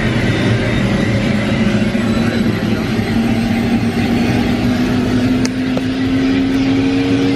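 Tour helicopter's engine and rotor running loud and steady, heard from inside the cabin, with a whine that rises slowly in pitch as it spools up for takeoff.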